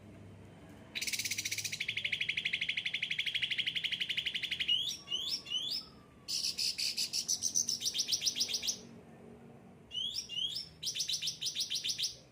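Yellow-headed cage songbird, sold as an 'ocean green', singing energetically: long, fast, buzzy trills broken by short quick rising notes, the trill going higher in pitch in the middle of the song.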